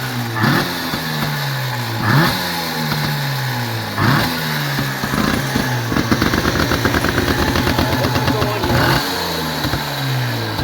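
1953 Motobi twin-cylinder two-stroke motorcycle engine running just after starting, blipped on the throttle about every two seconds with each rev falling back. Past the middle it holds a steady, fast-pulsing run for a couple of seconds before the blips resume.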